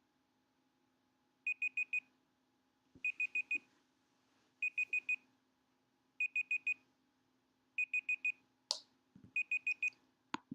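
Timer alarm beeping in quick groups of four, six groups in a row about a second and a half apart, marking the end of a timed session. A few sharp clicks come near the end as the beeping stops.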